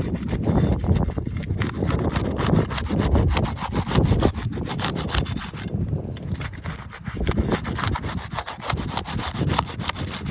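Hand saw cutting through wood in fast, steady back-and-forth strokes, while a shingle is being replaced.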